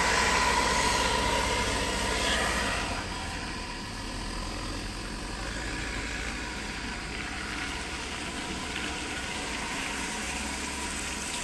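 A vehicle engine running with a low hum under a steady hiss, louder for the first three seconds, then settling a little quieter.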